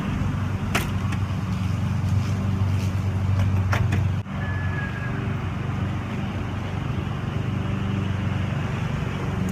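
A steady low mechanical hum, like a running motor or engine, with a couple of faint clicks; it breaks off for an instant about four seconds in.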